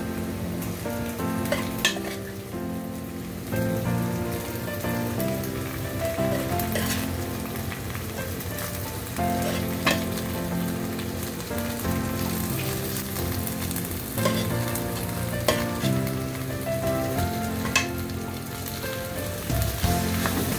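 Masala-coated beef and onions frying and sizzling in a non-stick wok while a plastic spatula stirs and scrapes them, with a few sharp knocks of the spatula against the pan. It is the stage of stirring the beef until the masala dries out.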